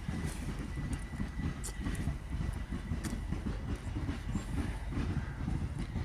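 A train running past, its wheels rumbling and clicking over the rails, with a faint steady whine during the first two seconds.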